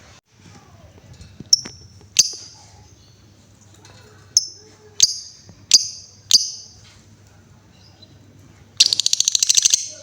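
Female lovebird giving six sharp, high chirps spread over a few seconds, then a rapid ticking trill of about a second near the end.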